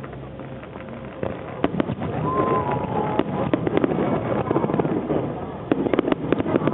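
Fireworks bursting in a finale: a rapid run of bangs and crackles that grows louder and denser about a second in, with a quick cluster of cracks near the end.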